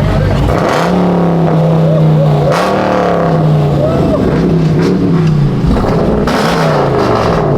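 A car engine revving: one long rev held for about two seconds, then a string of shorter blips rising and falling.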